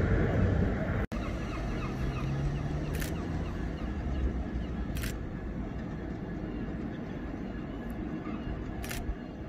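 Loud rumble of a passing train that cuts off suddenly about a second in. It gives way to the quieter, steady low rumble of a Class 66's two-stroke diesel engine as it approaches at low speed, with faint bird calls over it.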